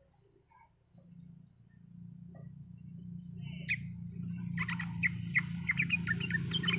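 Yellow-vented bulbul (trucukan) singing a quick run of short, bubbly chirping notes. The notes start with a single call and come thick from a little past the middle. Under them is a steady high tone and a low rumble that grows louder.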